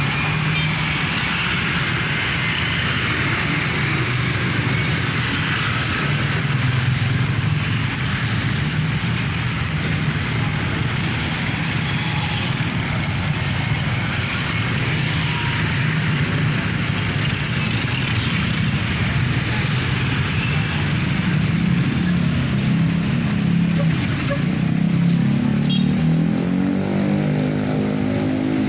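Dense road traffic passing, with the steady running of bus, truck, car and motorcycle engines. Near the end, one engine climbs in pitch as the vehicle speeds up.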